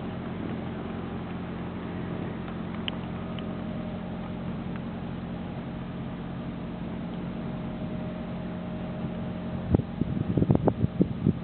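Car engine running steadily, a low hum heard from inside the cabin. Near the end, a run of irregular bumps and rustles, louder than the hum.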